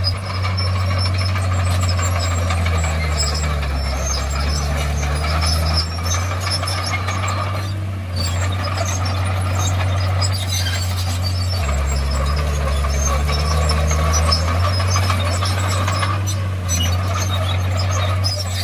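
Komatsu D51PX bulldozer's diesel engine running under working load. Its note dips and shifts twice as the load changes. A thin metallic squeal and rattle sit over the engine.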